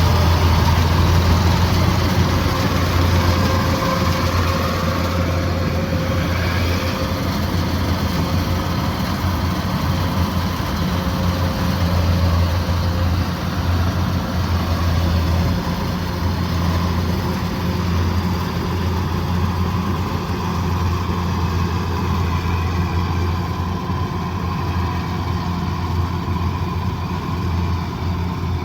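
Kubota DC108X combine harvester's diesel engine running steadily at working speed, a deep continuous drone with machinery noise over it.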